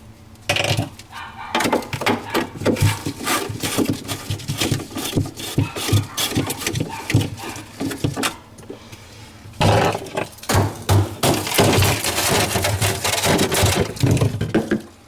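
Clicks, knocks and plastic rattling as the screws come out of a refrigerator's freezer panel and the panel is worked loose. The handling gets denser and scrapier in the last few seconds.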